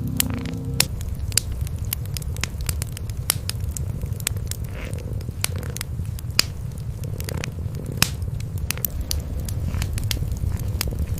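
Cats purring in a steady low rumble close to the microphone, with a wood fire crackling over it in sharp, irregular pops.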